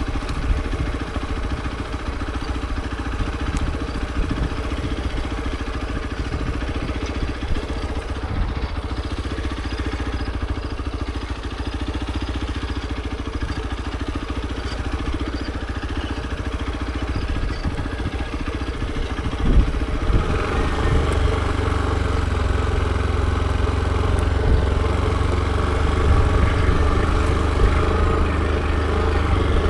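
Hero XPulse 200 4V's single-cylinder four-valve engine running on the move. It gets louder and fuller about two-thirds of the way through, just after a single thump.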